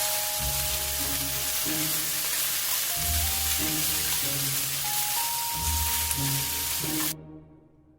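Food sizzling in a frying pan, a steady dense hiss that cuts off suddenly about seven seconds in, with light background music playing throughout.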